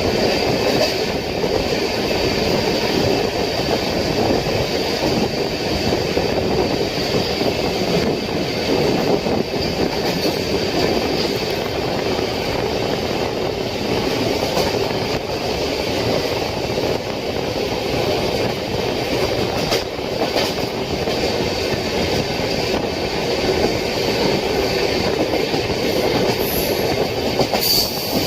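Humsafar Express passenger train on the move: a steady running noise of wheels on the rails, with a thin steady high whine above it.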